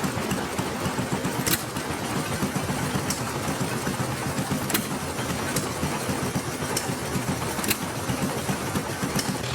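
Antique engine running with a rapid, uneven firing rhythm, and a sharp crack every second or so.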